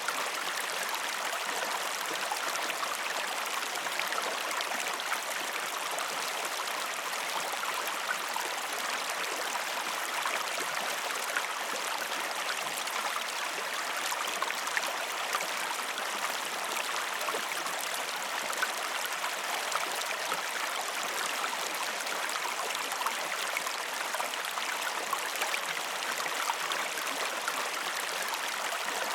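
Waterfall: a steady rush of falling, splashing water, flecked throughout with tiny droplet splashes.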